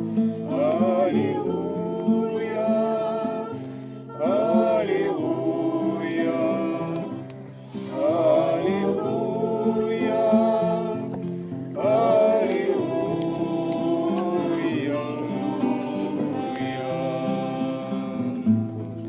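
A group of voices singing a Christian hymn of thanks in Russian, accompanied by a strummed acoustic guitar.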